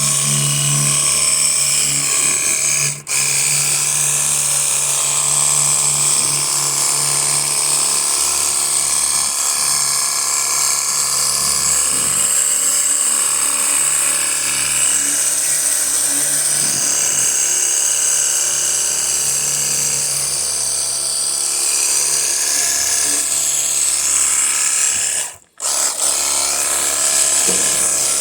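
Battery-powered handheld pressure washer spraying: a steady motor hum under a loud hiss of water. It breaks off twice for a moment, about three seconds in and again near the end.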